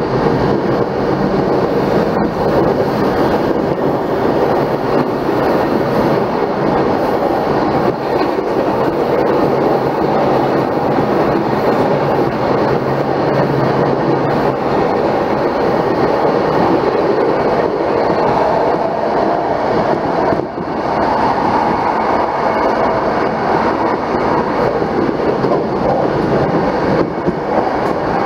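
Electric commuter train running at speed, heard from inside the passenger car: a steady rumble of wheels on rail with a low hum underneath.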